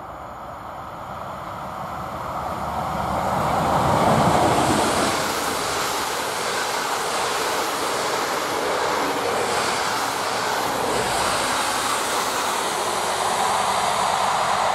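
Locomotive-hauled passenger train passing at speed. Its sound builds to its loudest about four seconds in as the locomotive goes by, then holds as a steady rush of the coaches' wheels on the rails.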